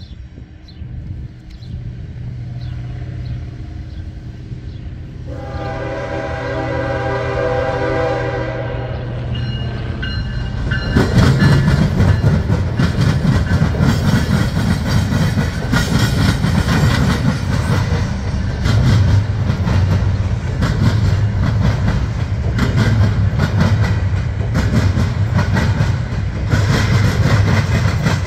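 Norfolk Southern diesel freight locomotives approaching with a low engine hum that grows louder, sounding the horn for about three seconds about five seconds in. From about eleven seconds in, the locomotives and intermodal well cars pass close by with a loud, continuous clatter of wheels banging over the rail crossing diamond.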